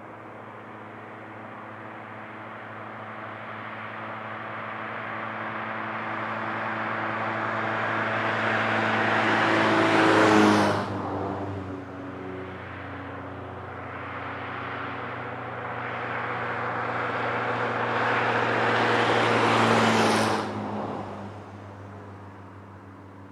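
Two vehicles passing at highway speed, one after the other. Each builds slowly out of the distance and peaks with a sharp drop, the first about ten seconds in and the second about twenty seconds in. The engine tone falls in pitch as each one goes by.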